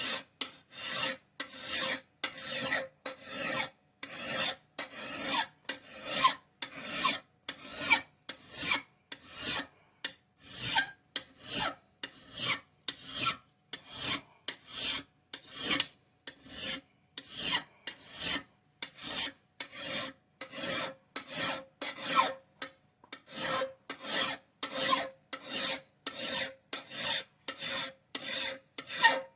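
Steel hand file, a Nicholson, being pushed across a steel axe bit to sharpen and even out its edge. It makes a regular scraping rasp at about two strokes a second.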